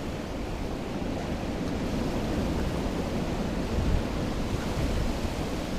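Strong wind buffeting the microphone outdoors: a steady, noisy rush heaviest in the low end, with a small gust about four seconds in.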